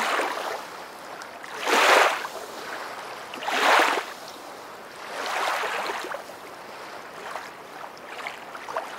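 Rushing water that swells and fades in repeated washes, like waves, with several swells, two of them clearly louder than the rest.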